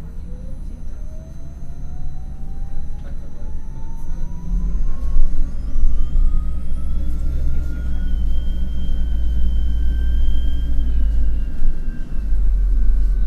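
MAN NL253 Hybrid city bus pulling away and accelerating: the electric drive whine rises smoothly in pitch for about eight seconds, then holds steady. Under it is a heavy low rumble that grows louder about four seconds in.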